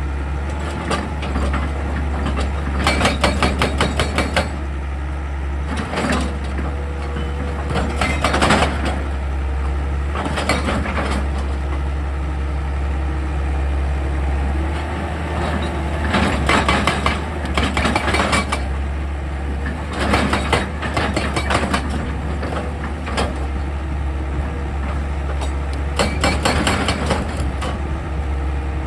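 Excavator's diesel engine running steadily, with short spells of rapid clattering every few seconds.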